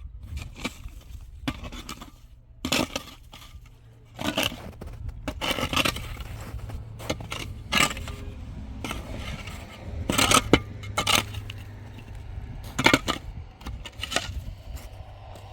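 Irregular scraping and sharp knocks of hard material being worked by hand, with clinks among them. The loudest strikes come about two-thirds of the way through.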